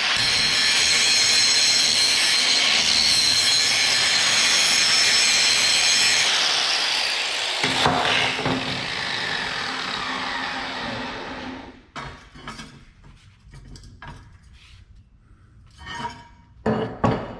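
Power grinder grinding on steel to expose bare metal for welding. It runs steadily for about eleven seconds, then winds down with a falling whine. A few short metallic knocks and clatters follow.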